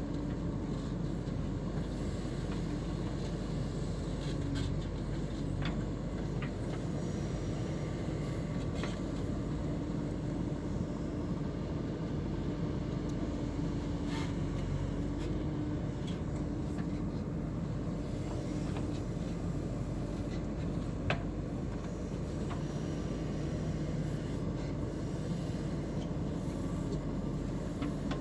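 JCB 3DX backhoe loader's diesel engine running steadily under work, with a few sharp metallic clicks or knocks scattered through.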